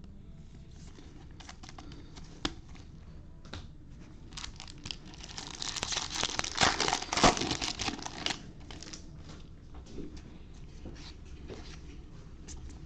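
A baseball card pack wrapper being torn open and crinkled, loudest in a burst of about three seconds in the middle, with light clicks and rustles of card handling before and after.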